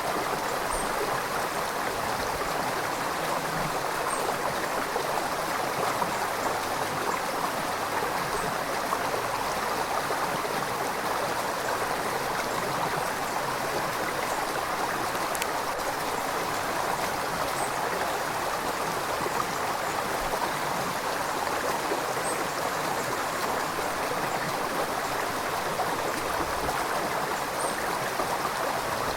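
River water flowing, a steady rushing sound that does not change.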